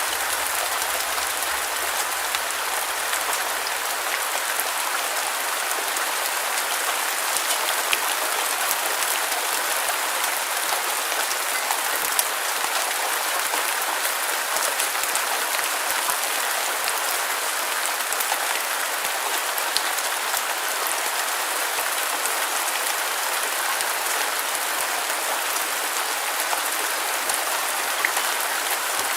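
Steady heavy rain with fine scattered drop ticks, with little bass beneath it: a continuous white-noise rain sound.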